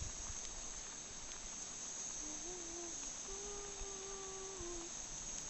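Crickets chirping steadily in a continuous high-pitched drone, with a faint low held tone for a couple of seconds midway.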